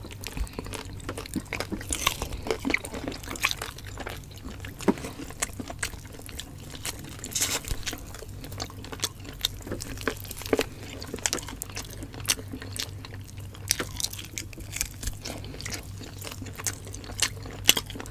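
Close-miked eating of roast suckling pig: irregular chewing, biting and crunching sounds.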